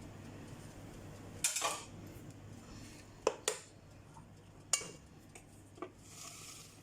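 Kitchen utensils and cookware clinking and knocking against each other, five separate short clinks spread a second or so apart.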